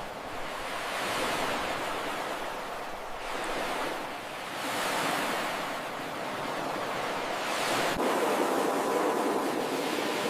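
Ocean surf: waves breaking and washing up a beach, coming in a few swells one after another.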